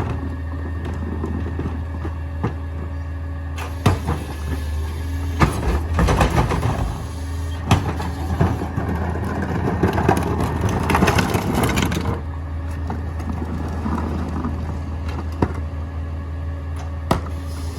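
Mini garbage truck's engine running steadily while its compactor packs trash, with crunching, cracking noise from the load and scattered sharp knocks, heaviest from about four to twelve seconds in.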